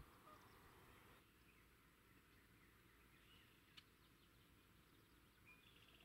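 Near silence: faint outdoor ambience with a few faint, short bird chirps and a single brief tick about four seconds in.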